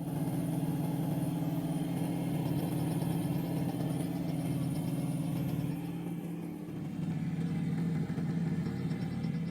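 An engine running steadily with a low, even throb that eases slightly about two-thirds of the way through.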